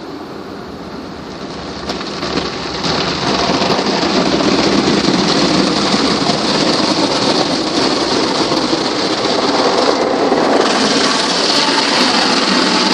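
Water jets of a PDQ ProTouch tandem soft-touch car wash spraying against the car, a dense rain-like drumming heard from inside the car. It grows louder about two to three seconds in and turns hissier near ten seconds.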